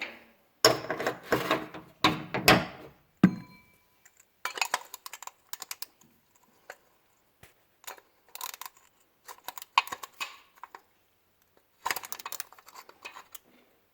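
Ratchet wrench clicking in several short runs of quick strokes, with some metal tool clatter near the start.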